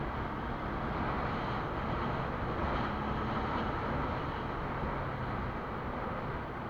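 Quad bike engine running steadily while riding, mixed with wind and road noise.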